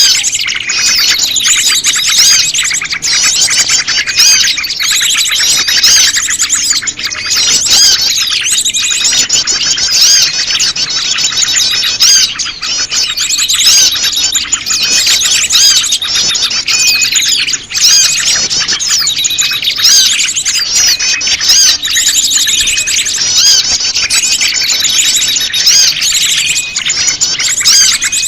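Bird-lure recording of many small birds chirping and trilling at once in a dense, unbroken chorus, mixed with calls of the prenjak lumut, a small prinia-type songbird.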